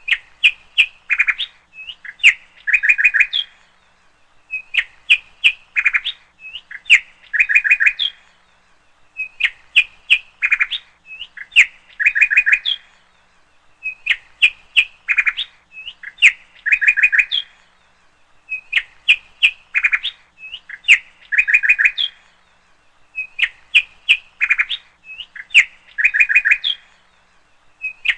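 Small birds chirping in short, quick bursts, about one burst every two seconds, with the same pattern repeating evenly throughout.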